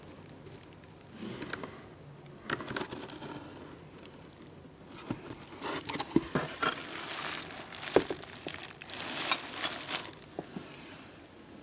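Intermittent rustling and crinkling of cardboard boxes and packing material being handled, with a few light knocks.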